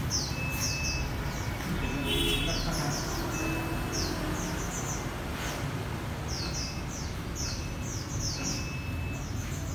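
Small caged bird chirping, quick falling high notes in rapid clusters with short clear whistled notes between them, over a low steady hum.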